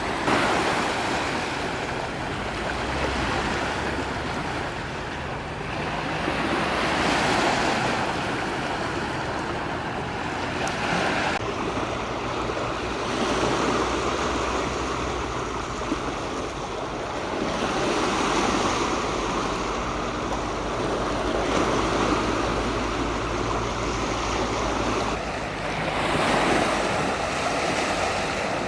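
Sea waves breaking on a shore, the surf swelling and falling back about every six seconds.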